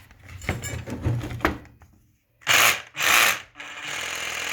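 Knocks and rubbing as a homemade 12-volt battery adapter is fitted to a Hitachi cordless rotary hammer. Then the hammer drill's motor is triggered in two short loud bursts, about two and a half and three seconds in. Near the end it runs steadily.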